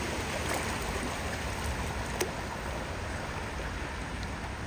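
Floodwater flowing steadily with an even rush, with one faint click about two seconds in.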